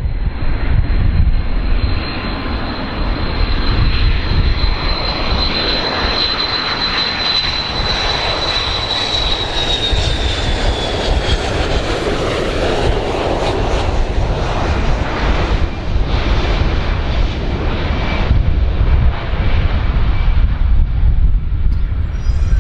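Large airplane's engines passing close by: a loud, steady deep rumble under a high whine that slides down in pitch about ten seconds in.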